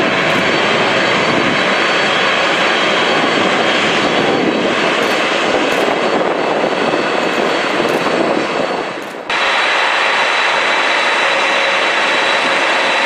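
Boeing 747-400 jet engines running loud and steady, a rush of noise with a thin high whine on top. The sound sags for a moment about nine seconds in, then comes back suddenly.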